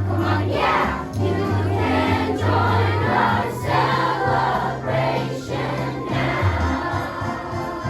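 A choir singing with instrumental accompaniment and a steady bass line.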